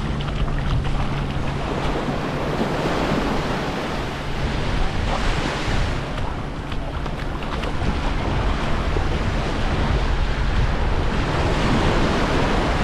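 Waves washing onto the beach, swelling and easing, with wind buffeting the microphone and a low steady drone underneath.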